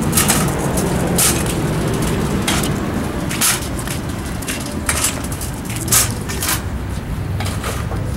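A car engine running steadily, with scattered clicks and knocks over it.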